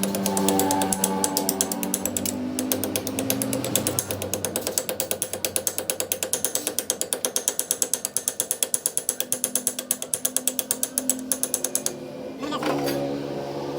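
A workshop machine running with rapid, even mechanical clicking, about ten clicks a second, which stops suddenly near the end.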